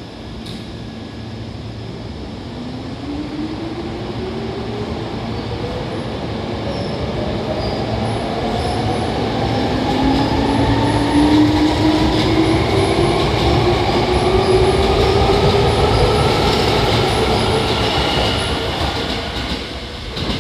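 Hankyu 3300 series electric train pulling away and accelerating: traction motor and gear whine rising steadily in pitch over the rumble of the wheels, growing louder as the train gathers speed and then fading near the end.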